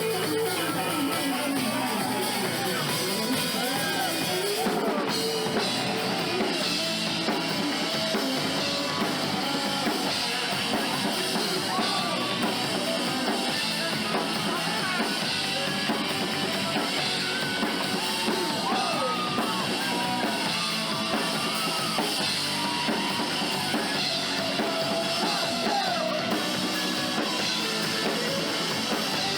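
Rock band playing live, with a drum kit keeping the beat under a lead line that slides and bends in pitch.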